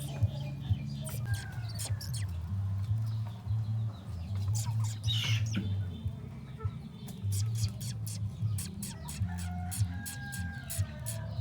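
Birds calling, with short chirps and clucking-like notes, over a steady pulsing background and scattered clicks.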